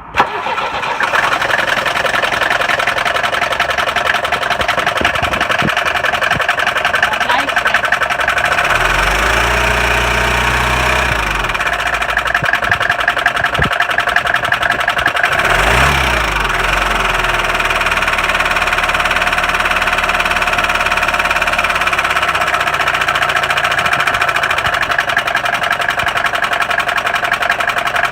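Mercedes-Benz OM 615 four-cylinder diesel running with a heavy, fast clatter, revved up briefly about nine seconds in and again about sixteen seconds in. The clatter comes from a faulty vacuum pump.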